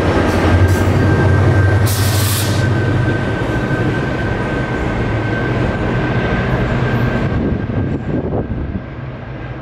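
GO Transit diesel locomotive passing and moving away, its engine drone strong at first and then fading, with a brief hiss about two seconds in and a steady high whine that dies out near the end.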